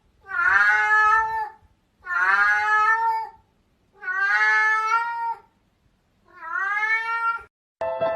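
A cat meowing four times in a row, each meow long and drawn out, rising at the start then held.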